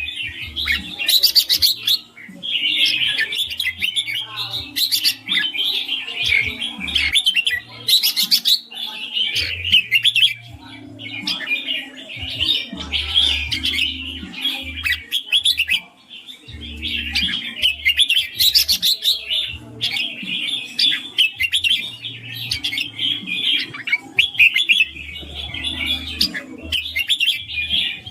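Red-whiskered bulbul singing and chirping in long runs of quick, bright notes, broken by short pauses.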